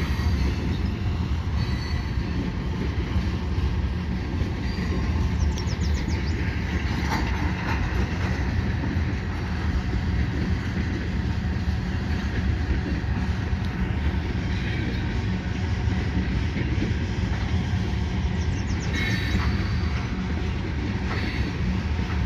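Freight train cars rolling past: a steady, heavy rumble of steel wheels on rail, with brief faint wheel squeals about five seconds in and again near the end.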